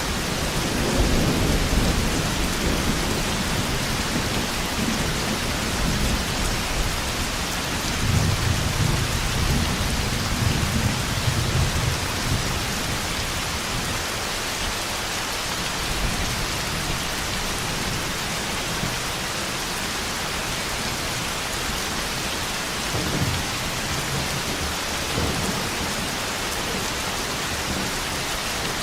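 Heavy rain falling steadily, with low rolls of thunder swelling a few seconds in, again around ten seconds in, and once more near the end.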